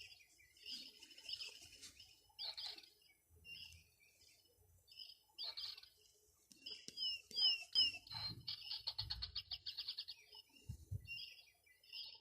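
Small birds chirping and trilling over and over, high-pitched, with one fast even trill about two thirds of the way through. A few faint low bumps come in the latter half.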